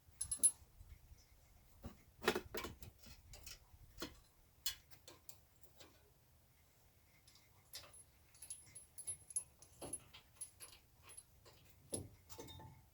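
Scattered metal clicks and clinks from hand tools and brake parts being handled while the caliper bracket bolts are loosened, with faint brief high squeaks.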